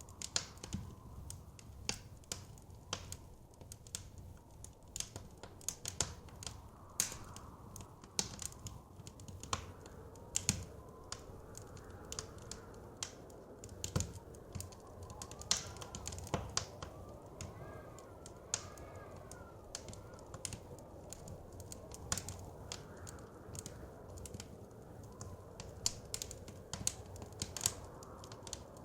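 Wood fire crackling, with irregular sharp pops and snaps over a steady low rumble. A faint wavering whistle comes in briefly near the middle.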